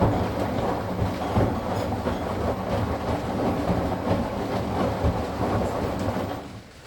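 Midea HealthGuard Smart 13kg washing machine in its spin cycle, running with a loud rattling, clattering rumble: the spin noise the owner treats as a fault to be fixed. The noise drops off abruptly near the end.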